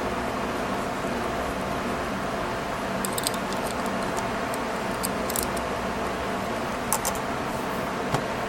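Scattered light metallic clicks and ticks from a small staple remover and rubber bands being handled, over a steady hum.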